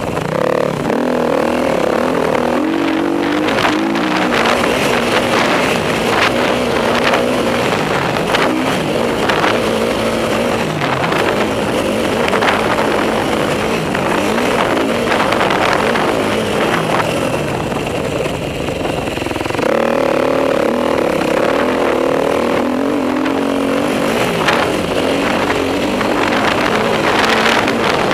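Enduro motorcycle engine being ridden hard, revving up and down over and over as the throttle opens and closes.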